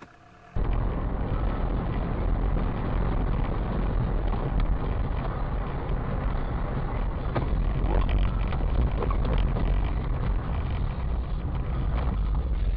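Steady loud road and engine noise of a moving car, picked up by a dash cam microphone, with a low rumble and a few faint clicks. It starts abruptly about half a second in.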